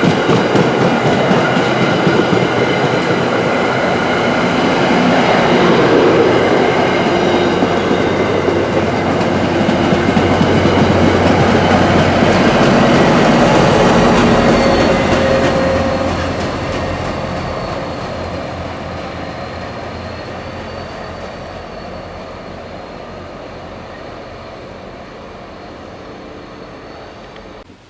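Commuter rail train passing close by with a loud steady rumble of wheels and cars. About halfway through it starts to fade as it moves away, and a thin high whine rides over it.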